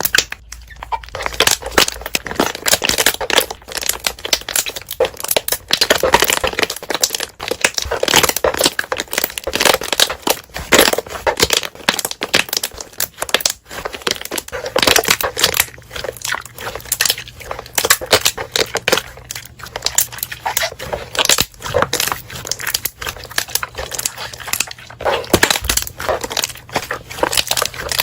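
Slime being squeezed and kneaded by hand, with a dense run of crackling and popping as trapped air bubbles burst.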